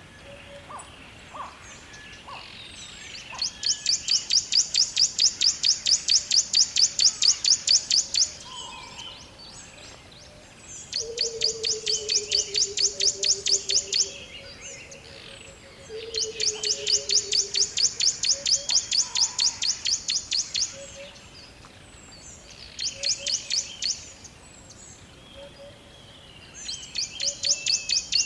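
Forest ambience: a high, rapid pulsing trill of about seven or eight pulses a second comes in bouts of a few seconds each, five times. Two low descending whistled notes sound near the middle, among scattered faint chirps.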